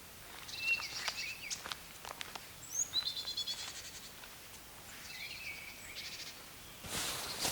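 Small songbirds calling in a forest: several short, high chirps and trills come one after another. Near the end a louder rustling noise starts.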